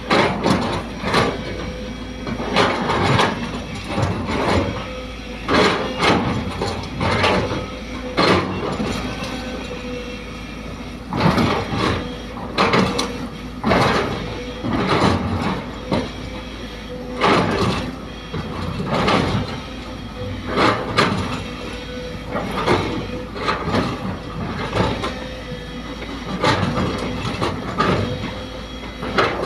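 Sumitomo hydraulic excavator working as it loads soil: the engine runs with a steady whine, and irregular metallic clanks and knocks come from the machine roughly once a second.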